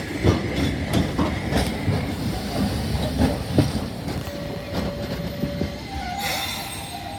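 Streetcar running on street track: irregular clacks of the wheels over rail joints over a low rumble, with a faint steady tone. A short hiss comes about six seconds in, and the sound grows quieter towards the end.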